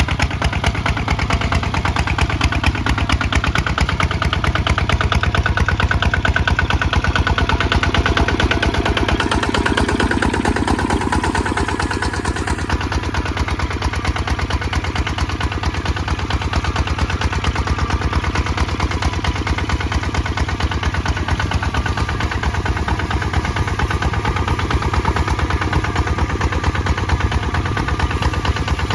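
Kubota ZT155 DI single-cylinder diesel engine running steadily under plowing load, with a fast, even chugging beat.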